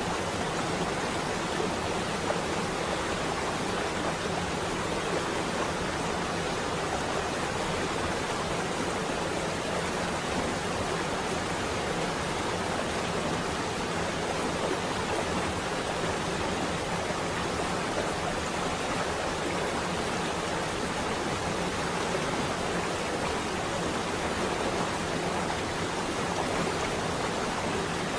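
Rain falling steadily on a window, an even hiss with no changes.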